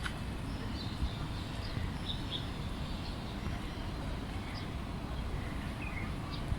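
Outdoor ambience: a steady low rumble, with a few short, faint bird chirps scattered through it.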